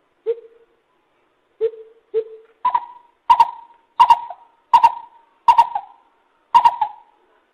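Lesser coucal calling: a series of hollow hooting notes, three lower ones first, then louder and higher notes repeated about one and a half times a second.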